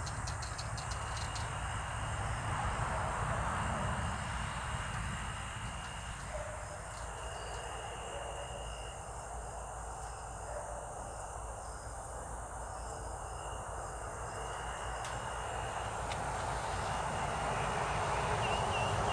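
Insects, crickets or similar, trilling on one high steady pitch in stretches of a few seconds that break off and start again, over a low hiss and rumble.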